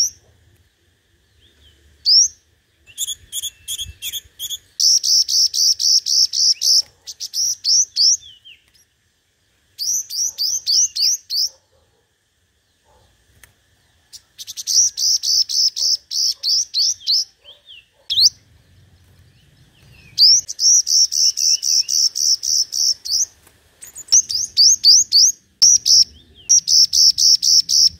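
Sunbird singing: bursts of fast trills of thin, high repeated notes, each burst lasting one to three seconds, with short pauses between them.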